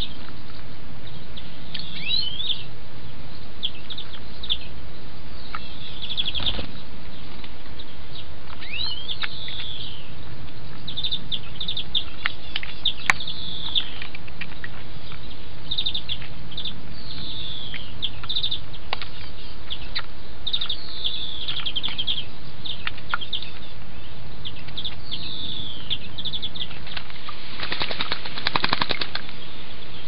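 House sparrows chirping in short, repeated high calls, with a brief burst of rapid fluttering near the end.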